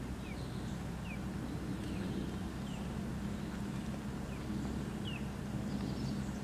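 Small birds calling with short, high, falling chirps, about five scattered through, over a steady low hum.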